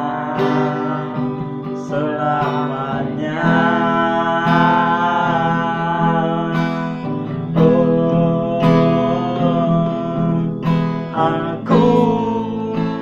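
Acoustic guitar strumming chords under a voice singing a slow Indonesian ballad, with long held notes.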